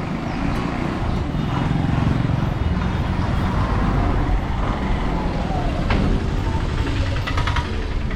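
Town road traffic with a vehicle's engine running close by, a steady low rumble. A sharp knock comes about six seconds in, followed a second later by a quick run of clicks.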